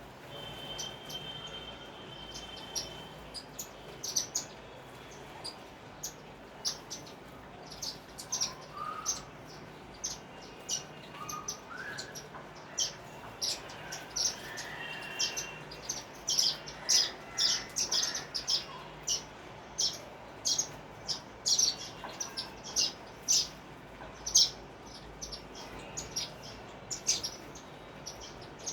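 Sparrows chirping: a string of short, sharp chirps, sparse at first and growing busier and louder from about halfway through.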